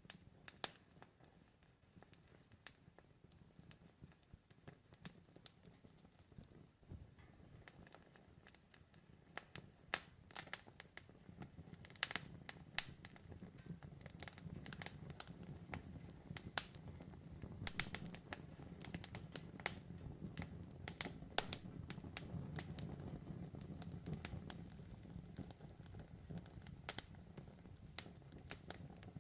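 Campfire burning, with irregular sharp crackles and pops from the wood over a soft low rumble of flames. The pops come more often in the second half.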